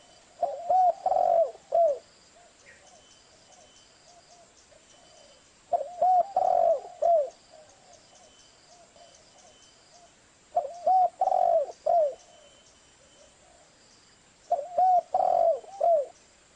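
Zebra dove (perkutut) cooing: four phrases of several quick, rolling coo notes, each about a second and a half long, repeated about every four seconds.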